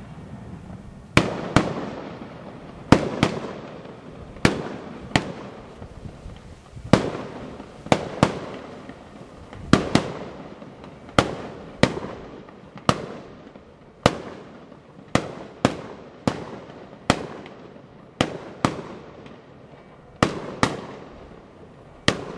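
Fireworks going off in quick succession: a sharp bang every half second to a second, many in close pairs, each trailing off in a short echoing rumble.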